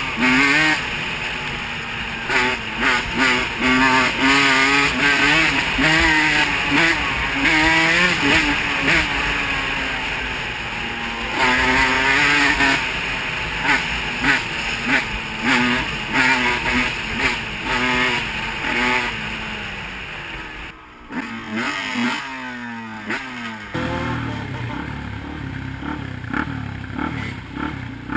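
Off-road motocross engine revving hard, its pitch climbing and dropping again and again through acceleration and gear changes. About 21 seconds in it briefly fades, then a falling note gives way to a lower, steadier engine run.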